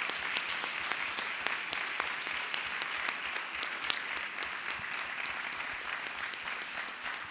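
Congregation applauding steadily, many hands clapping, slowly fading toward the end.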